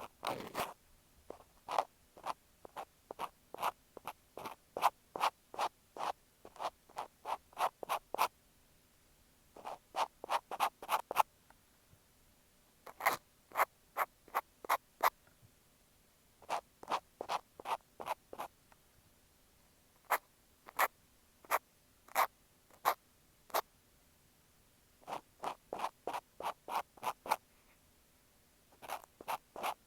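Cotton swab scratching and rubbing against an earphone microphone in quick short strokes, a few a second. The strokes come in bursts of several, with brief pauses between bursts, as in ear-cleaning ASMR.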